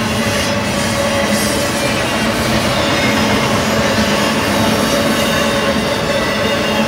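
Double-stack intermodal well cars of a BNSF freight train rolling past close by: a steady, loud rumble of steel wheels on rail, with a few faint steady whining tones over it.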